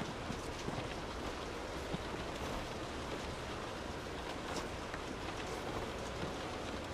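Steady, soft rain falling, an even hiss with scattered faint drop ticks.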